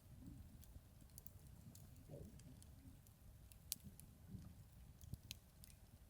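Wood campfire crackling, with scattered sharp pops of burning wood, the loudest a little past halfway, over a low rumble.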